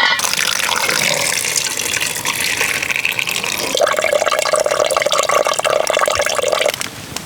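Water pouring in a steady stream, starting abruptly and stopping about a second before the end.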